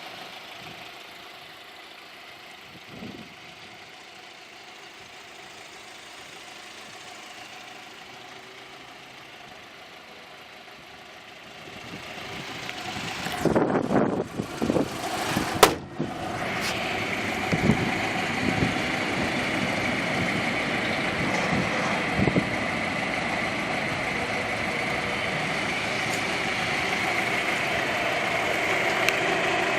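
Volkswagen Bora's 1.6-litre 8-valve inline-four idling steadily. It is quiet at first, then a few knocks come between about 13 and 16 seconds in. After them the idle is louder, with a constant whine.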